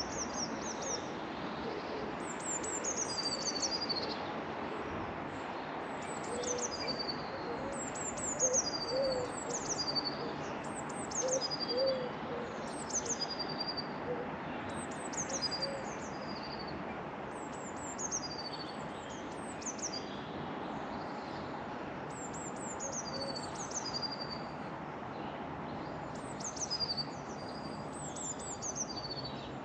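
Garden birds calling: repeated phrases of short, high notes that sweep down in pitch, with a run of low, soft hooting notes in the middle and once more near the end, over steady background noise.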